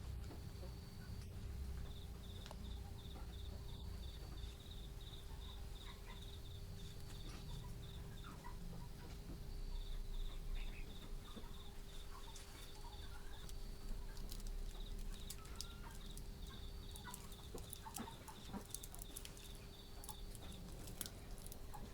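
Chickens clucking in a rural farmyard, with an insect chirping in fast pulsed trains that stop and start, over a steady low hum and scattered small clicks.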